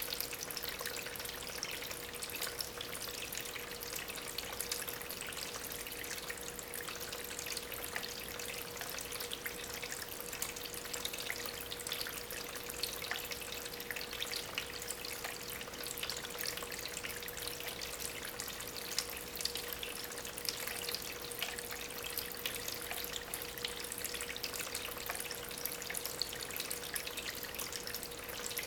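Water from a small homemade tabletop waterfall, recirculated by an aquarium pump, trickling and splashing steadily over stones, with a faint steady hum underneath.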